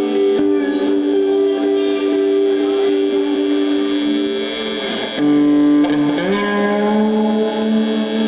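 Live post-hardcore band music: electric guitars holding long, ringing chords, sliding in pitch into a new chord about five seconds in.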